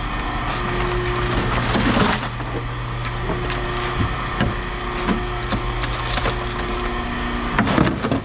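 Scattered knocks, clatter and cracking of scrap being handled and sorted, over a steady low machine hum, with two busier stretches of rattling about two seconds in and near the end.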